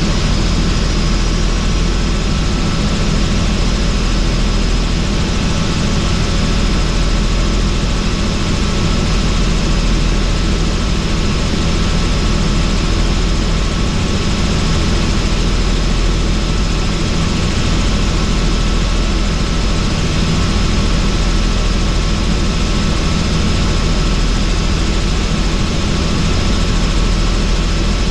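Helicopter in flight heard from inside its doors-off cabin: steady low rotor and engine drone under a constant rush of wind noise.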